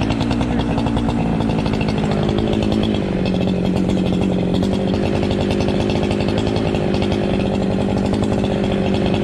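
Two-stroke chainsaw at full throttle, cutting through dead ash wood. Its pitch sags slightly a few seconds in as it loads in the cut, then holds steady until it lets off at the very end.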